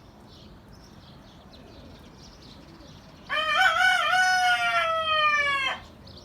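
Rooster crowing once, about three seconds in: a wavering opening, then a long held note that slowly falls, lasting about two and a half seconds.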